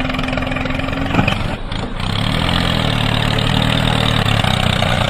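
A steady hum with a click about a second in, then from about two seconds in a tractor engine starting and idling with a steady low throb.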